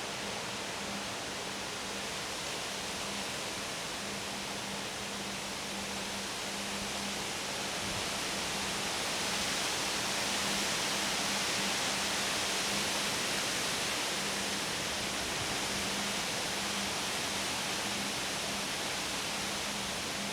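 Gusty wind outdoors, a steady rushing noise that grows louder about nine seconds in and eases off again a few seconds later.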